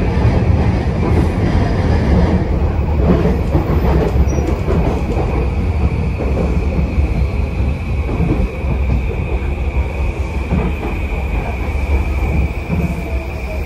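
E235 series electric train running at speed, heard inside the passenger car: a steady rumble of wheels on rail and rolling noise. From about five seconds in, a high steady whine comes up over it.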